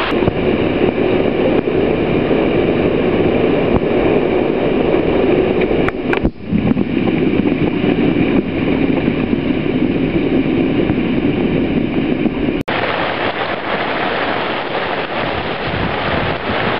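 Loud, steady rush of wind and rain as a squall front passes over the boat. There is a brief lull about six seconds in and a sudden break about two-thirds of the way through.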